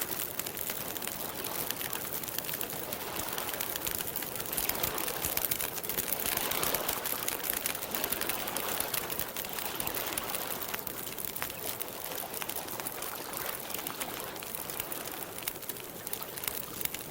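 Campfire crackling, with frequent small pops and snaps over a steady soft rush, and lake water lapping in the background; the rushing swells briefly around the middle.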